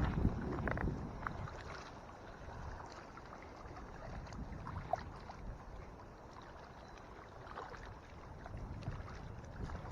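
Wind buffeting the microphone on a small fishing boat in heavy wind, gusting louder at the start and again near the end, with a single small click about five seconds in.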